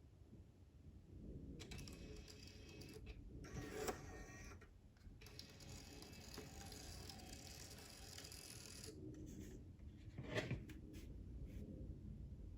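Brother P-touch Cube Plus label printer running as it feeds and prints tape, a faint steady mechanical whir for several seconds. Sharp clicks come about four seconds in and again near the end.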